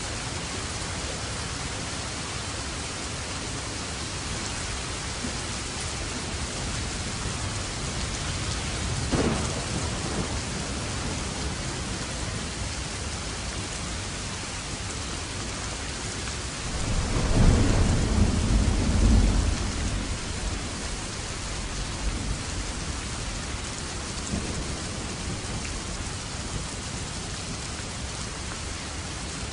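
Steady rain falling throughout, with thunder: a short clap about nine seconds in, then a louder, longer low rumble of thunder a little past the middle that fades over a few seconds.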